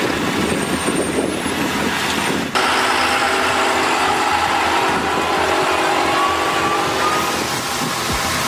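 Heavy haulage truck engine running under load, a steady mechanical drone with some higher whine. The sound changes abruptly about two and a half seconds in.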